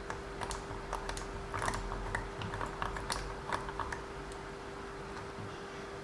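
Irregular light clicks and taps of small RC car drivetrain parts being handled and worked by hand, bunched in the first four seconds and sparse after, over a steady faint hum.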